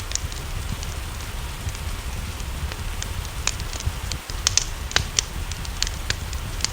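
Wood fire crackling with irregular sharp pops, a small cluster of them about four and a half to five seconds in, over the steady hiss of rain and a low rumble.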